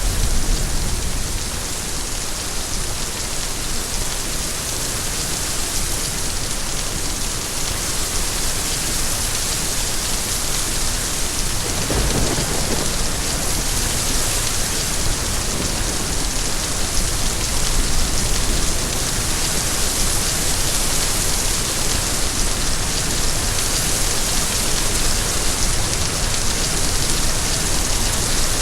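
Steady heavy rain falling, a dense even hiss, with a brief low rumble about twelve seconds in.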